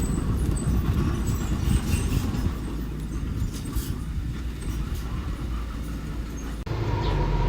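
Small construction machine's diesel engine running with a low rumble, with metallic clanking and scraping from tracks or a blade. Near the end the sound changes abruptly to a steadier engine drone with a thin whine.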